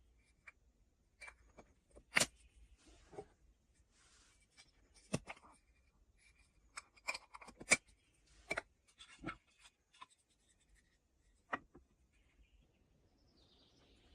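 Scattered sharp knocks and clicks of small objects being handled and set down, a dozen or so at irregular intervals, the loudest about two seconds in and near the middle.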